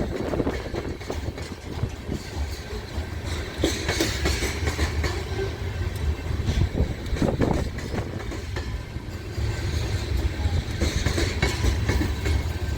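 Freight cars of a long, heavy grain train rolling slowly past, steel wheels clacking and knocking irregularly over the rail joints and crossover, over a steady low rumble.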